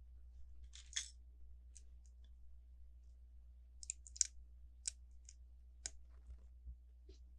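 LEGO plastic bricks clicking as pieces are handled and pressed together: about eight sharp, separate clicks spread irregularly over the few seconds, with a faint steady low hum beneath.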